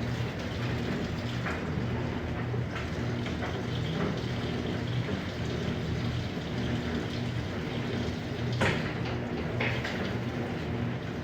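Electrolux LPE16 top-load washing machine running its Jet Wash, with water splashing and pouring over a steady motor hum. There is a sharper splash or knock about three-quarters of the way through.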